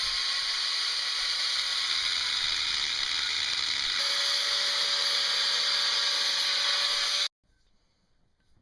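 A small power tool running steadily on a metal part, a continuous hiss-like whir with a faint motor tone that stops abruptly about seven seconds in.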